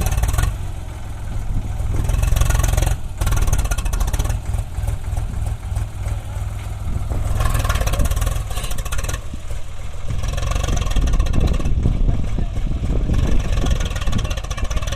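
Heavy diesel engine running, its revs rising and falling, as machines work a tractor out of mud.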